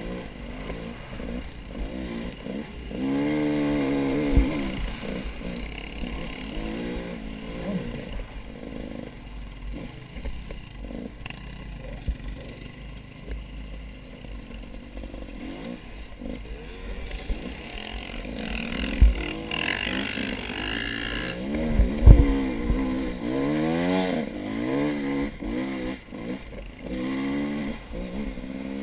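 Off-road motorcycle engines revving up and down in several bouts as the bikes ride, with scattered low knocks and thumps.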